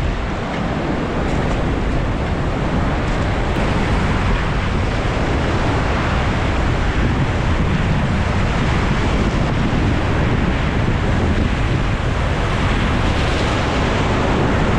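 Whitewater of a river rapid rushing steadily and loudly, with wind buffeting the microphone.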